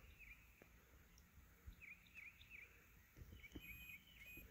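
Near silence with a bird calling faintly: two sets of three quick falling chirps, then a brief steadier call near the end.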